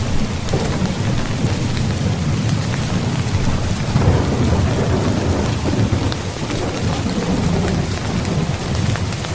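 Steady rain falling on a tent, with fine drop ticks over a continuous low rumble that swells about four seconds in.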